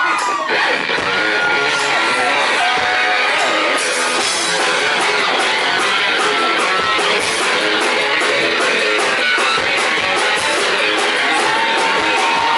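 Live rock music: electric guitar over drums with a steady beat, recorded from among the concert audience.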